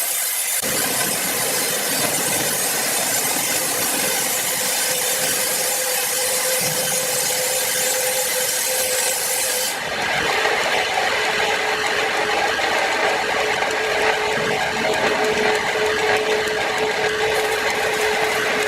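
A power saw running steadily as it cuts through a large log, a hissing rasp with a steady whine under it. About ten seconds in the sound changes abruptly: the high hiss thins and the whine drops slightly in pitch.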